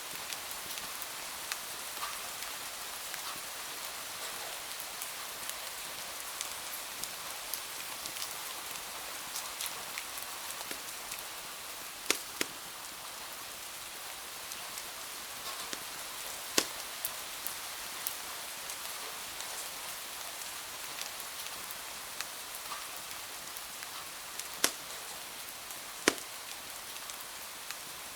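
Steady hiss of rain falling against window glass, with a wood fire crackling over it: many small ticks and a handful of loud, sharp pops scattered through, two close together about twelve seconds in.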